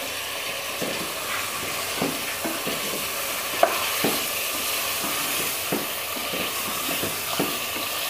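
Chicken pieces frying in hot oil on high heat in a metal pressure cooker pot, with a steady sizzle. A wooden spoon stirs them, knocking against the pot at irregular moments.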